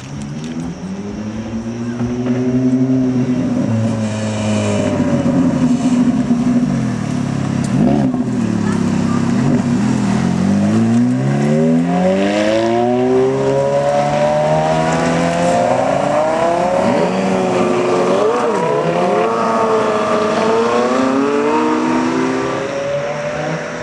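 Sports car engine revving hard, its pitch climbing and dropping again and again, with one long rising sweep around the middle and quick up-and-down throttle blips later on.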